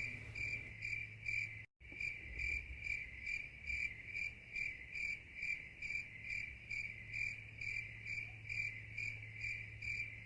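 Crickets chirping in an even rhythm, about three chirps a second, over a faint low hum; it cuts out for a moment just under two seconds in.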